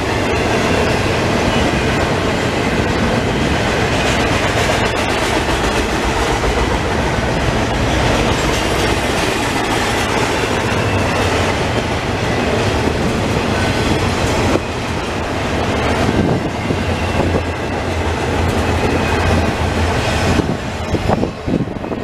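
Double-stack intermodal container train rolling past, a steady loud rumble and clatter of well-car wheels on the rails, dropping off a little before the end.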